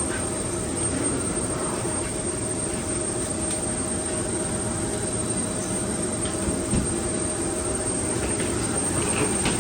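Steady hum inside an Embraer E170's cabin at the gate, with a constant mid-pitched tone and a faint high whine over it. A soft knock comes about seven seconds in.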